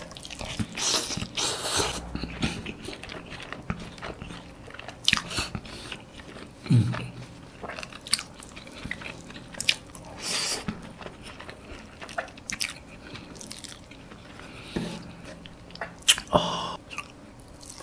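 Close-miked wet chewing and mouth sounds of a man eating steamed chicken and rice by hand, with many small clicks and smacks. A short low hum about seven seconds in and another near the end.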